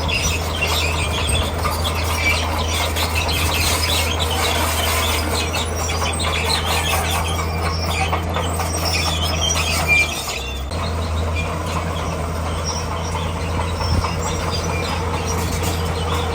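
D41P crawler bulldozer's diesel engine running steadily under load, with squealing and clanking from its steel tracks as it pushes rock. The sound dips briefly about ten seconds in.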